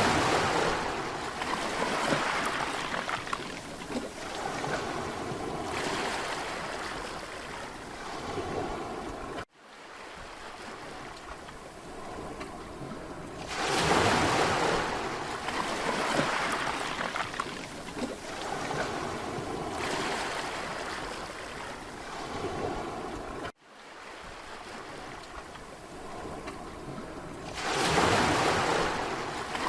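Mediterranean sea waves breaking on a beach and washing back, in repeated surges of rushing surf. The sound cuts out abruptly twice and starts again.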